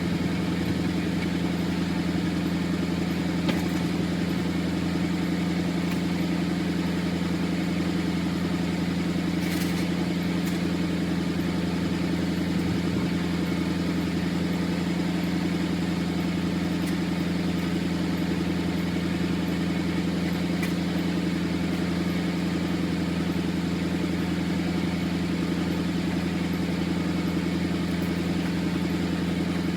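A Ford F-350 pickup's engine idling steadily, with no change in speed.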